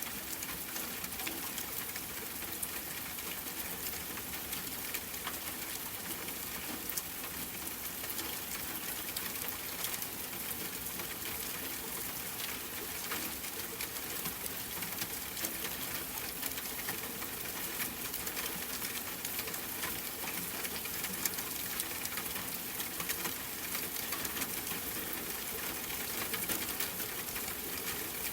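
Steady rain: an even hiss dotted with many fine, quick drop ticks.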